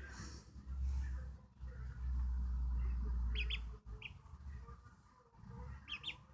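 Day-old ducklings peeping: a few short, high chirps scattered through, over a low rumble that is loudest in the first few seconds.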